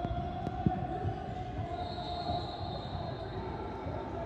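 Basketball bouncing on a gym court during play, with a sharper thud about half a second in, over a murmur of voices.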